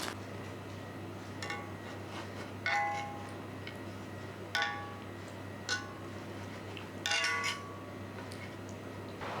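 Small hard objects being handled: about five light clinks and clatters, each ringing briefly, the last a short rattling run, over a steady low hum.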